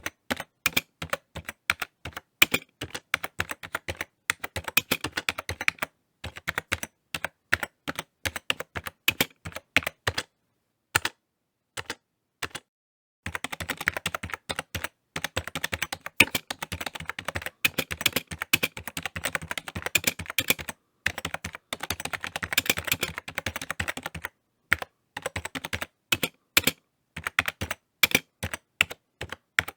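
Typing on a computer keyboard: rapid runs of key clicks in bursts, with short pauses, the longest about ten to thirteen seconds in.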